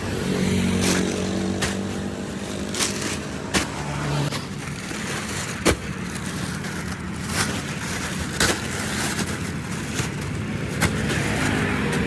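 A vehicle engine running with a steady hum, with sharp knocks at uneven intervals, about one a second.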